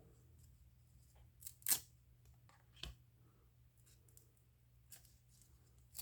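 Baseball trading cards being flicked through by hand: a few short, sharp card snaps spread out, the loudest about two seconds in, with faint room hum between.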